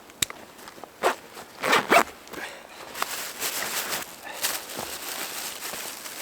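Several short rasping strokes with rustling between them, the loudest about two seconds in.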